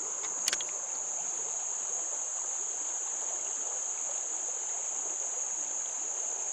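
Steady high-pitched drone of insects, with a faint rush of creek water underneath and one sharp click about half a second in.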